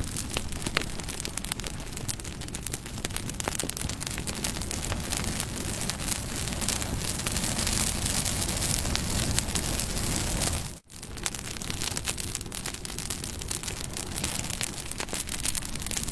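Bonfire burning: a steady rushing of flames with frequent small crackles and pops of burning wood. The sound drops out for a split second about eleven seconds in.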